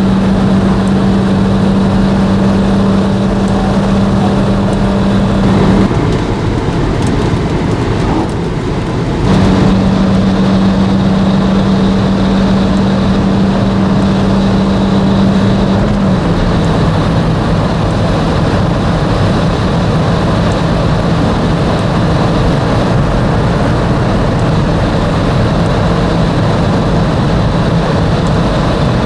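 Fiat Doblò Cargo van's 1.2-litre 65 hp engine droning steadily at speed over road noise. The drone breaks off about six seconds in and returns about three seconds later, then settles a little lower in pitch past the halfway point.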